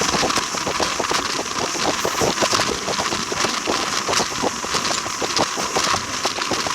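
Train in motion: a steady running noise with wind and a dense, irregular clatter of clicks from the wheels and cars.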